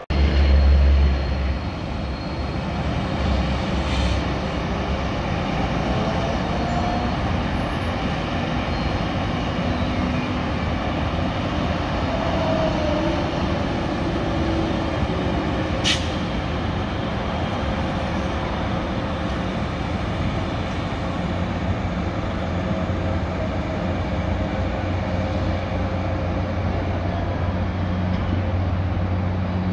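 Passenger train rolling past on the tracks: a steady rumble and rail noise with a low hum. There is one sharp click about halfway through. Near the end an electric locomotive's hum grows stronger as it comes closer.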